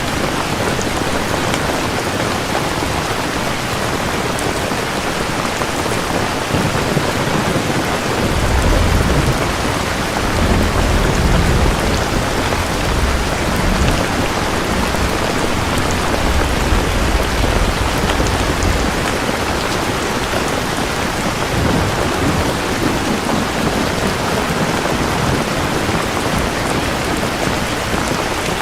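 Steady heavy rain falling on a surface, with a long low rumble of thunder rolling through from about 8 to 19 seconds in.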